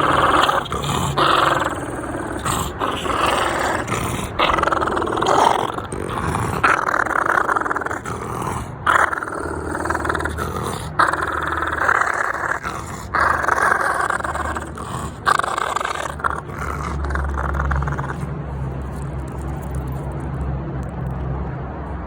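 French bulldog growling in repeated long bouts while guarding its tennis ball, with a few sharp clicks among them. The growling stops about four seconds before the end, leaving a low steady hum.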